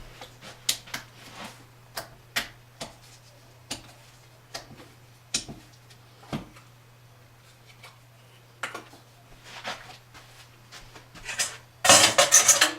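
Scattered light clicks and taps of kitchen containers and a bowl being handled, over a steady low hum. Near the end comes a denser run of louder clattering.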